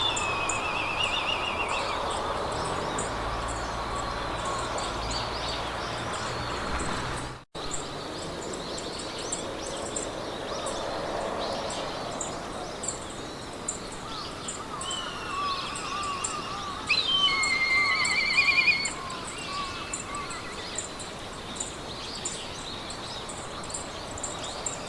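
Meadow ambience: several birds singing in warbles and trills over a steady hiss of wind through grass, with a fast, high, regular ticking behind. The sound cuts out for a moment about seven seconds in, and the loudest trills come a little past the middle.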